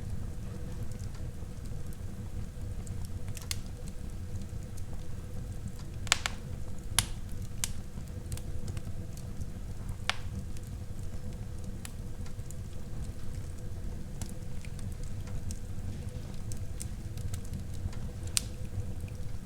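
Wood fire burning in a fireplace: a steady low rumble of the flames with scattered sharp crackles and pops, a few louder pops standing out.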